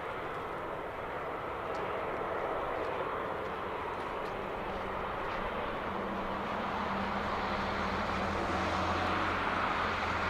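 Jet engines of a Boeing 737-800 (CFM56-7B turbofans) running with a steady rushing noise that grows slightly louder, with a low steady hum coming in about six seconds in.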